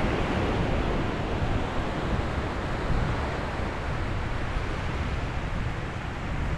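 Ocean surf: waves washing onto the shore as a steady rushing noise, easing a little over the few seconds.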